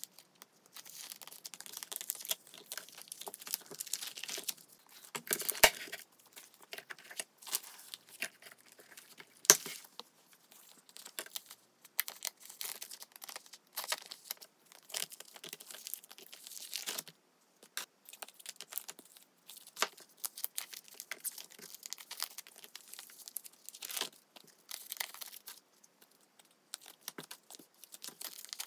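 Clear plastic binder pocket pages crinkling and rustling as photocards are slid into them and the pages are handled, in uneven spurts with a few sharp clicks.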